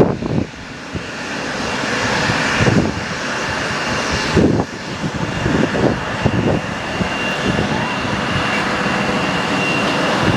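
Airliner engines growing steadily louder as an aircraft approaches, with a thin steady whine over the rushing noise. Strong gusts buffet the microphone in the first half.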